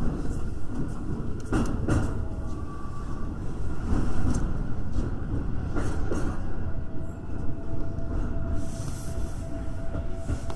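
Electric commuter train running at reduced speed, heard from the front car: a steady low rumble of wheels on rail, with several clacks over rail joints. A faint steady high tone comes in a little past the middle.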